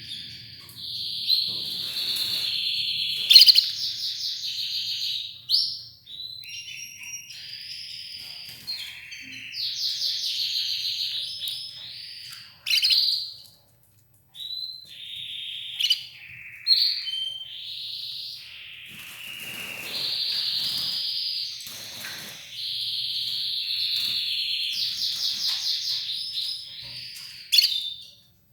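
Red ivory canary singing: long runs of rapid trills and rolling phrases, broken by a short pause about halfway through.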